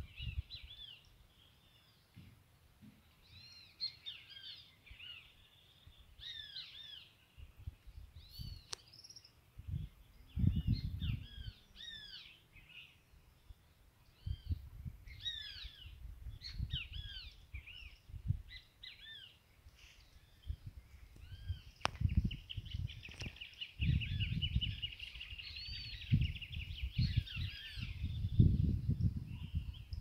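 Several birds chirping and calling in short, repeated arched notes, with a fast trill near the end. Low rumbles on the microphone come and go, loudest in the last third.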